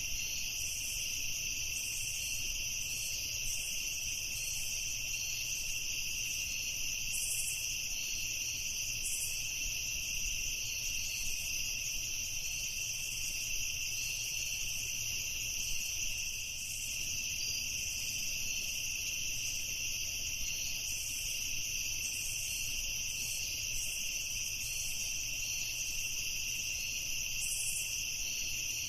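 Crickets chirping in a steady, unbroken chorus of high-pitched trills.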